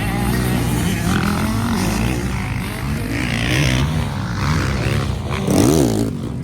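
Motocross race bikes running on the track, engines revving up and down over one another; near the end one bike revs up sharply and drops back.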